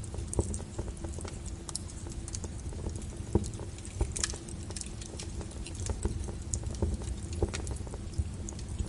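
Log fire burning in a fireplace, crackling with irregular sharp pops over a steady low rumble of the flames.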